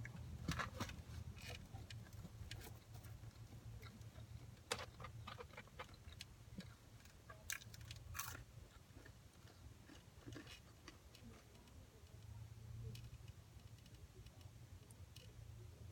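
Faint chewing and crunching of fast-food fries and chicken sandwich, with scattered short sharp clicks and rustles over a low steady hum.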